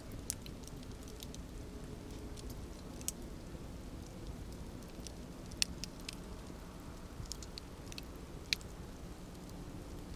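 Campfire burning with a low steady rumble and scattered sharp crackles and pops from the wood, two louder pops about halfway and near the end.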